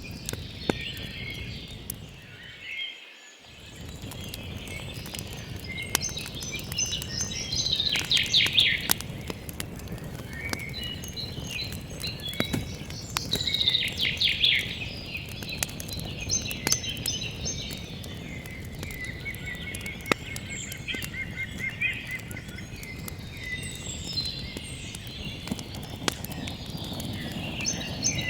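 Several birds singing and calling, with louder trilled phrases about eight and fourteen seconds in, over a campfire crackling with scattered sharp pops and a low steady rush.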